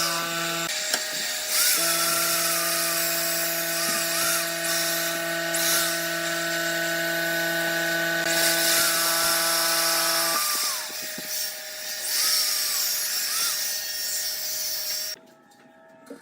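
Electric power tool running and working wood: a steady motor hum with changing cutting and grinding noise over it. The hum drops out briefly near the start, stops about ten seconds in, and the sound cuts off abruptly about fifteen seconds in.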